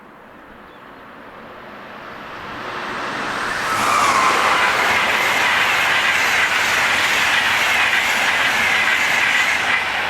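Intercity train hauled by a class 101 electric locomotive approaching and passing close by, growing louder over the first few seconds, then a steady rhythmic clatter of wheels on the rails with a high squeal from the wheels over it.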